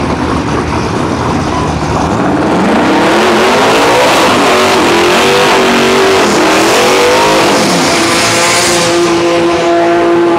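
Twin-turbo LS V8 of a Holden Commodore drag car revving hard through a burnout, its rear tyres spinning. The revs climb and waver for several seconds, then hold steady at a high pitch.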